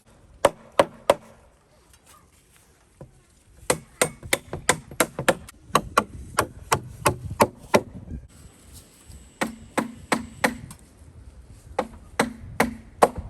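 Hammer driving nails into wood: three quick blows, a pause, then a steady run of about a dozen strikes at roughly three a second, followed by two shorter groups of blows near the end.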